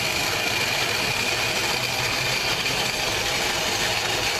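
MayaPedal bicycle-powered corn grinder milling dried corn kernels on its second pass, a steady, continuous grinding and whirring from the mill and pedal drive.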